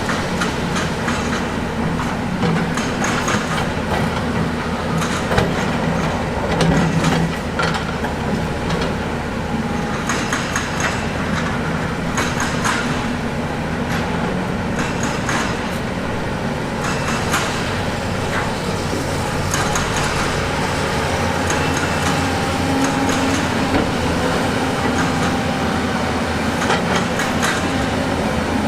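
Heavy diesel construction machinery running steadily, with frequent sharp clanks and knocks of metal and rock. The engine note shifts about two-thirds of the way through.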